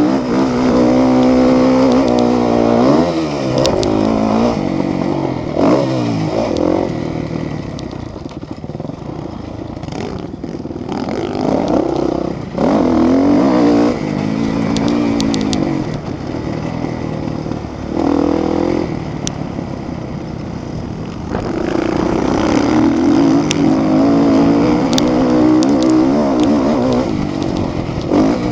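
Motocross motorcycles racing, engines revving hard, with the pitch climbing and dropping again and again through throttle and gear changes. The engines fade somewhat about a third of the way in, then come back up loud.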